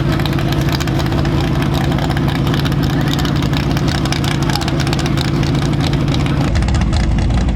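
A drag car's engine idling with a steady, rapidly pulsing rumble. About six and a half seconds in, the sound changes abruptly to a deeper, lower rumble.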